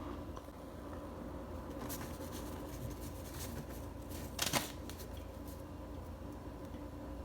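Crisp crunching of pressed starch: a run of short crackles, the loudest about four and a half seconds in, over a faint steady hum.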